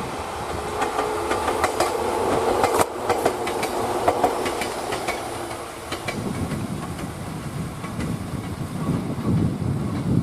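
Ohmi Railway train running past on the tracks, wheels clicking over rail joints with a steady hum for the first six seconds or so, then a lower rumble.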